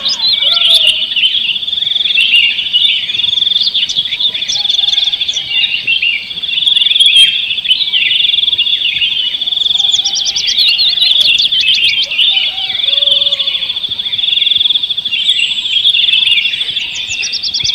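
Songbird singing a long, unbroken rapid trill, with many quick chirps and sweeping whistled notes over it.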